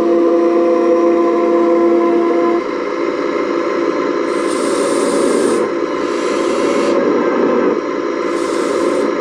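Model excavator's motor and hydraulic pump running with a steady whine that shifts pitch a few seconds in, with three short hisses as it works.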